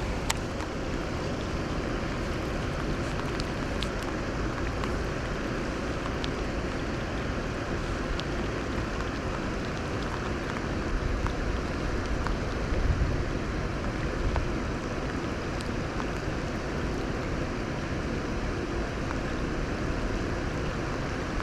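Steady wind noise buffeting the microphone, with rain falling and a few faint ticks.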